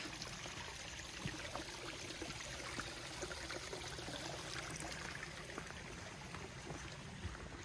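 Small creek running steadily, an even rush of flowing water.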